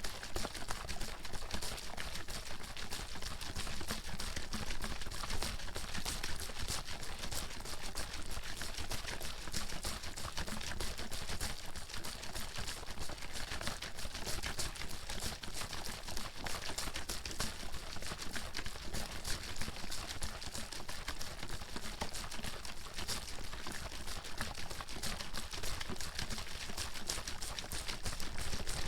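Water bottle being shaken without pause, the water sloshing inside in a dense, rapid rattle.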